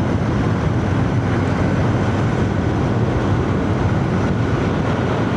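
Royal Enfield Shotgun 650 motorcycle's parallel-twin engine running steadily under way, with even wind and road noise, heard from a microphone inside a full-face helmet.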